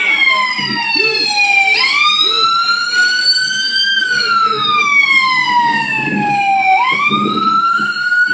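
Emergency vehicle siren on a slow wail, its pitch sweeping down and back up in a cycle of about five seconds.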